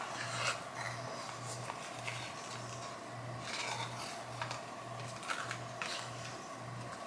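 Small rubbing, scraping and clicking sounds of a lipstick's packaging being handled and opened by hand, over a faint low hum that pulses about twice a second.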